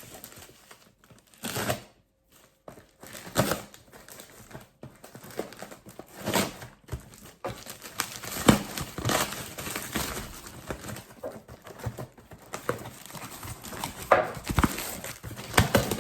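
Packaging being handled and opened: crinkling and rustling with some tearing, plus irregular knocks and scrapes throughout.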